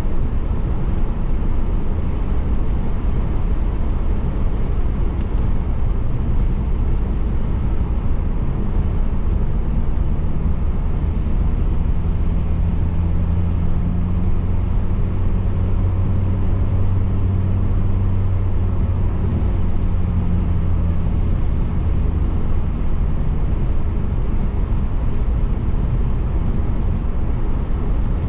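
Car driving: steady road and tyre noise with the engine running underneath. A low engine hum stands out for several seconds in the middle, then fades back into the road noise.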